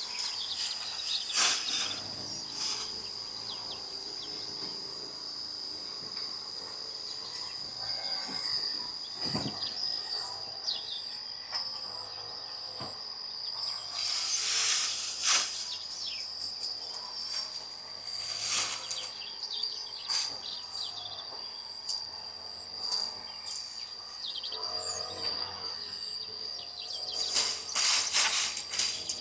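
Insects trilling steadily on one high pitch, with birds chirping now and then. Scattered sharp knocks and clicks come through, clustering about halfway through and again near the end.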